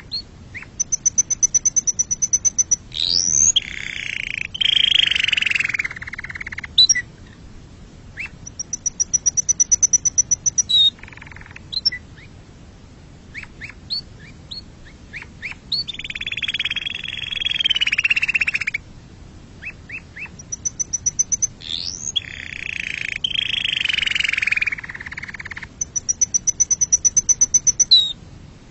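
Domestic canary singing a continuous song. Runs of rapid, high, evenly pulsed notes alternate with quick sweeping whistles and long, lower rolling trills of two to three seconds each, and the pattern repeats several times.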